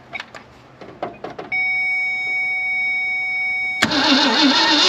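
A steady warning buzz, broken briefly by a few clicks, then about four seconds in the starter cranks the 1965 Ford Thunderbird's 390 V8, its pitch rising and falling in a regular beat as the engine turns over without firing. The engine is cranked with a spark plug pulled and grounded, to test for spark.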